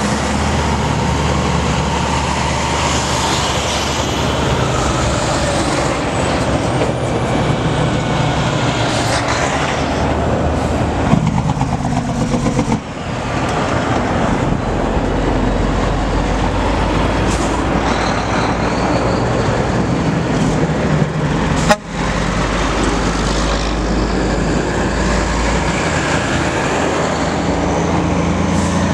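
Heavy diesel trucks rolling past in a convoy, with horns sounding over steady engine and road noise. The sound breaks off abruptly twice, about a third and three quarters of the way through.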